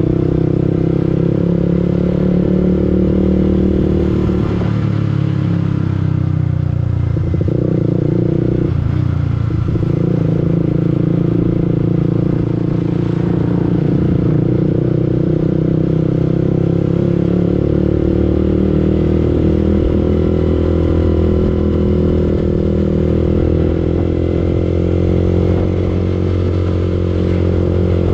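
Yamaha R15 V2's single-cylinder four-stroke engine running while riding, heard from on the bike. The revs drop and pick up again a couple of times in the first ten seconds, then hold steady and climb slowly.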